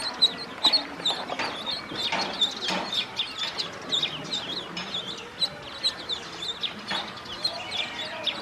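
A group of ducklings peeping constantly, many short high calls overlapping several times a second, with scattered soft clicks.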